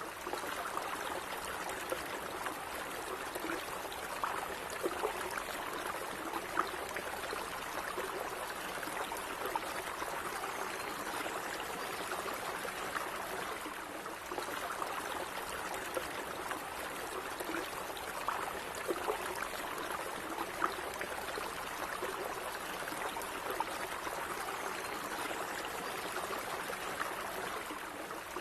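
Calm running water, like a small stream, flowing steadily: an even rushing with short bubbling notes scattered through it.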